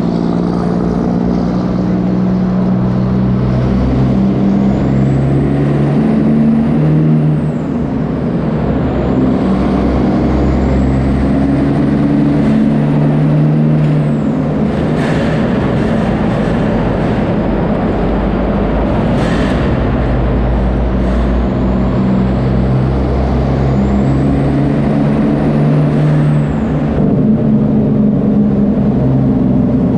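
Straight-piped Kenworth W900 truck's diesel engine running loud, echoing in a tunnel, its pitch rising and dropping several times. There are two brief hisses around the middle.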